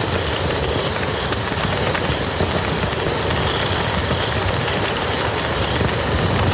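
Wood campfire crackling over the steady rush of a flowing river, with a faint high chirp repeating a little more than once a second.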